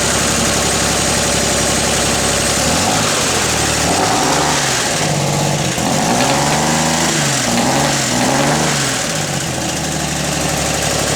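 1966 Corvair Corsa's air-cooled flat-six running through a Clarks Ultimate Exhaust with the baffles out, open and loud: it idles, then is revved in several quick blips that rise and fall over a few seconds before settling back to idle near the end.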